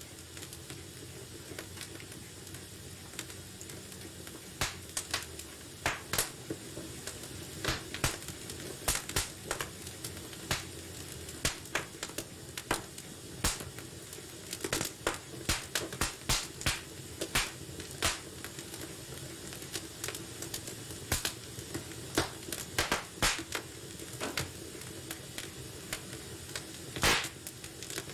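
Wood fire burning in a fireplace, crackling and popping irregularly over a low steady hiss, with a few louder pops, the loudest about 27 seconds in.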